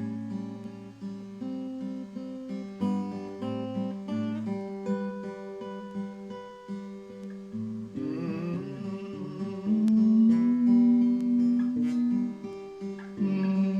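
Acoustic guitar playing an instrumental passage of individually plucked notes, with a louder held note between about ten and twelve seconds in.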